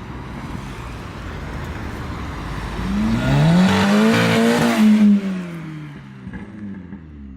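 A car accelerating past: the engine note rises in pitch and grows loud about four to five seconds in, then drops in pitch and fades as it drives away.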